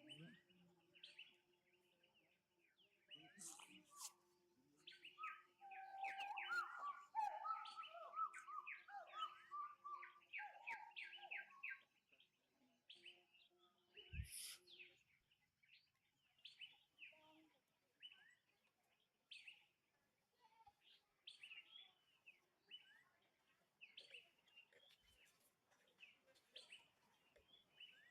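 Faint birds chirping and calling, with a busier run of rapid repeated song notes from about five to twelve seconds in.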